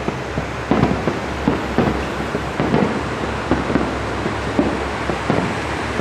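Kantō Railway Jōsō Line diesel railcar train pulling out, its wheels clacking over the rail joints in close pairs under a steady low engine hum.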